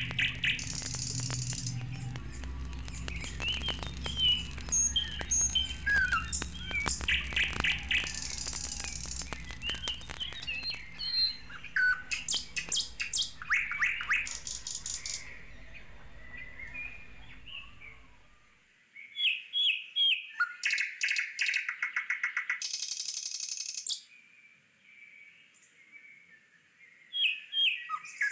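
Small birds chirping and calling outdoors: many short rising and falling chirps, with bursts of rapid, very high trilling. A low steady hum runs underneath for the first two-thirds and cuts off suddenly.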